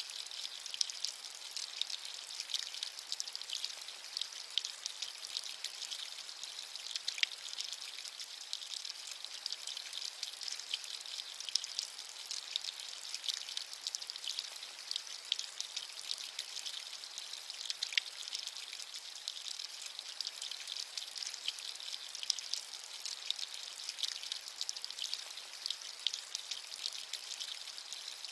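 Steady rain with a constant high hiss and many small drops ticking sharply through it.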